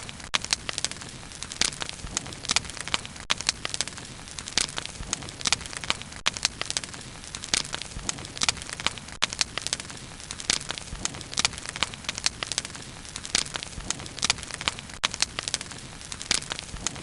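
Wood bonfire burning, with a steady low hiss and many sharp, irregular crackles and pops, several a second.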